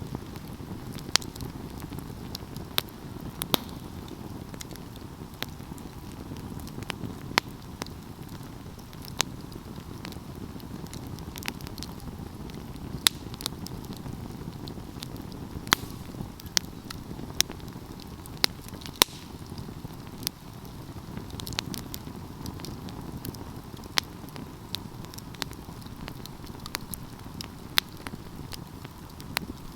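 Wood fire crackling: sharp, irregular pops and snaps, one or two a second, over a steady low rush of burning.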